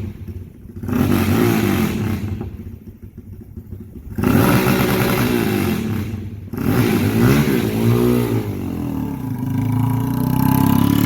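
Straight-piped Honda Grom's small single-cylinder engine being revved in several loud throttle bursts, its pitch rising and falling and dropping back between blips.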